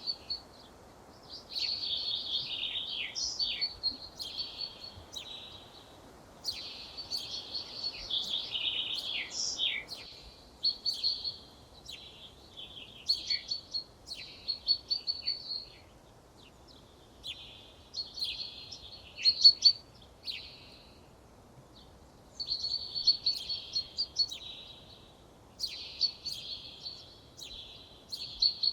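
A songbird singing in a run of separate phrases, each two to three seconds long with short pauses between them, over faint background hiss.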